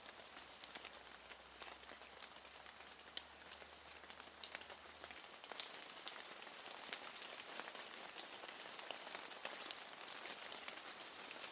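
Steady, fairly faint rain, with many small raindrops ticking through the hiss. A faint low hum underneath stops about five seconds in.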